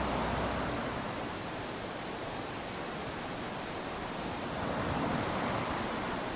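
Small waves lapping onto a sandy shore, the wash of surf rising and falling, with one swell fading early on and another rising about five seconds in.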